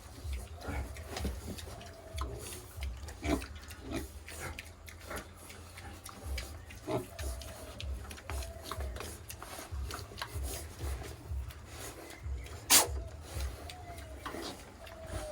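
Pigs feeding in a pen: rasping, scraping and rustling with many short clicks, and one sharp knock near the end.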